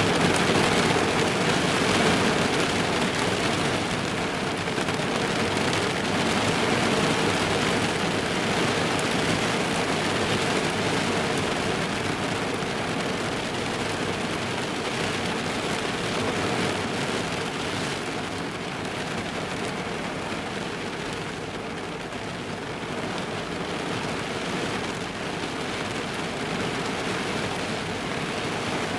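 Steady rain drumming on a car's roof and windows, heard from inside the car, a dense even patter that eases slightly partway through.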